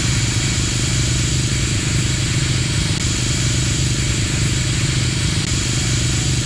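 SUV engine idling steadily, with a loud, even hiss over it.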